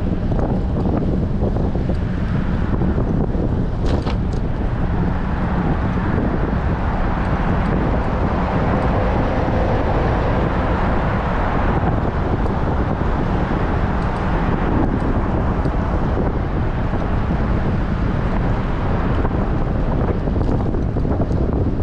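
Strong wind buffeting a GoPro microphone on a moving bicycle, a steady, loud rushing noise.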